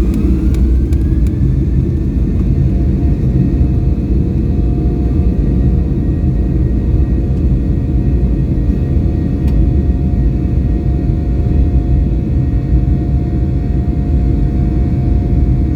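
Boeing 737-800's CFM56-7B jet engines heard from inside the cabin, their whine rising and levelling off about a second and a half in as they spool up to takeoff thrust, then a loud steady rumble with a steady drone through the takeoff.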